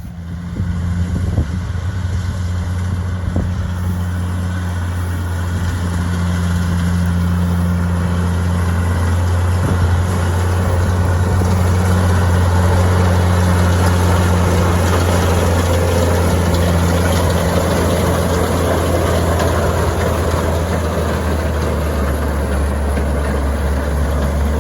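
Oliver tractor engine running steadily at constant speed, a deep even hum.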